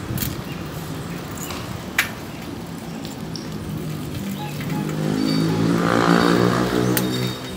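Street traffic noise, then a motor vehicle engine grows louder from about the middle, peaks and drops away just before the end as it passes close by. A sharp click is heard about two seconds in.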